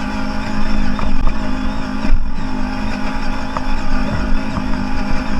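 Off-road vehicle engine running hard at high, fairly steady revs, with a brief dip about two seconds in.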